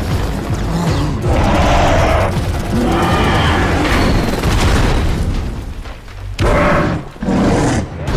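Action-film soundtrack: loud dramatic music mixed with heavy booming impacts. It drops out briefly about six seconds in and again about seven seconds in, each time returning at once.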